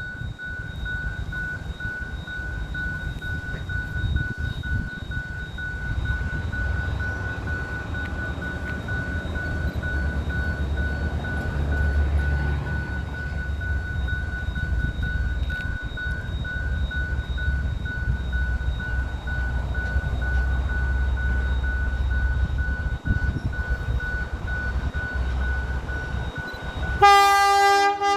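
Diesel locomotive running with its train, a steady low rumble that strengthens partway through. Near the end comes one short horn blast, about a second long and the loudest sound.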